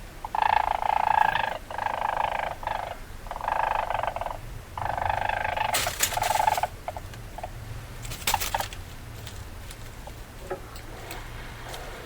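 Weasel calls: four short bursts of about a second each in the first five seconds, followed by scattered sharp clicks and scrapes.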